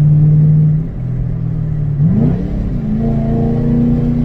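2006 Ford Mustang GT's 4.6-litre V8 running under way; its note drops away about a second in, then the revs climb and hold steady at a higher pitch from about two seconds in.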